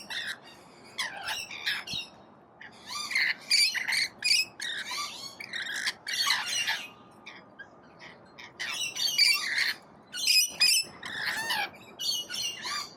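A flock of wild parrots screeching and squawking in repeated harsh bursts, many calls overlapping, with a brief lull about two-thirds of the way through. The birds are hungry and calling while they wait to be fed.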